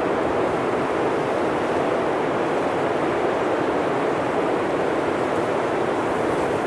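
Blizzard wind blowing steadily through a forest, an even rushing noise without gusts or breaks.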